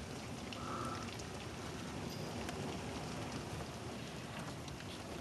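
Steady heavy rain falling and pattering on surfaces, with scattered drips.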